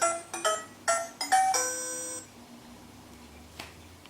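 Electronic jingle from a VTech Go Go Smart Friends Busy Sounds Discovery Home playset: a quick run of short chiming notes that ends on a held note about two seconds in, followed by a faint click.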